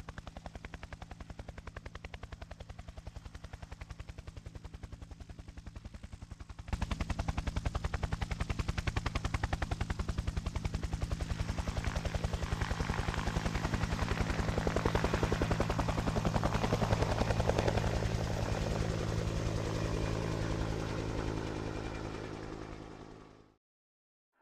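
UH-1 Huey helicopter in flight: rapid rotor chop over a steady engine drone. It gets suddenly louder about a quarter of the way in, then fades out shortly before the end.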